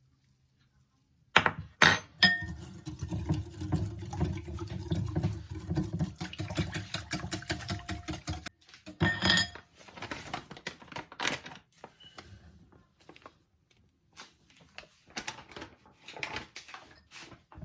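Kitchen utensils and dishes knocking and clinking during pancake preparation: a few sharp knocks about a second and a half in, then busy continuous clattering with a low hum for several seconds, stopping abruptly. After that come scattered clinks and knocks.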